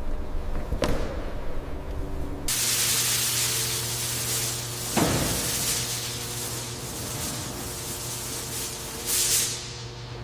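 Low mechanical hum, then about two and a half seconds in a loud, steady spray hiss starts over a steady low tone, with two brief swishes and a louder spurt of spray near the end.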